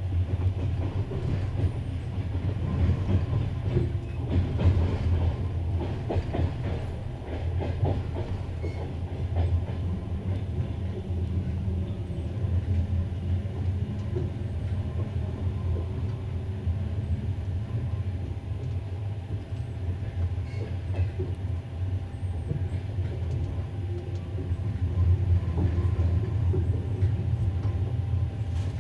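Passenger train coach running along the track, heard from inside the train: a steady low rumble of wheels on rails, with scattered clicks as the wheels pass over rail joints.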